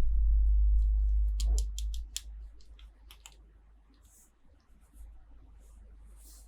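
Hands handling small plastic toy packaging. A low rumble of handling noise lasts about two seconds, with a quick run of sharp clicks about a second and a half in. Scattered clicks and soft rustles follow.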